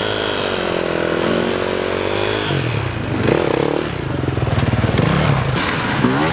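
Dirt bike engine running, its pitch rising and falling as it is revved, with a short rev a little after the middle. A few sharp clicks come near the end.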